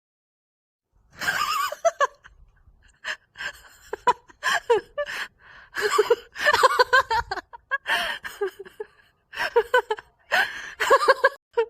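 A person laughing hard in breathy, gasping bouts, several bursts separated by short pauses.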